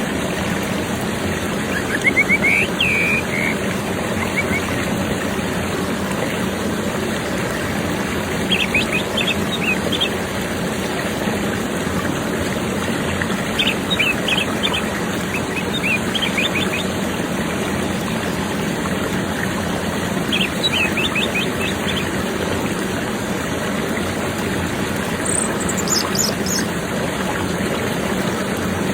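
Orange-headed thrush song played as a lure to get a silent bird singing: short bursts of quick high chirped notes about every five or six seconds, five times, over a steady background hiss and low hum.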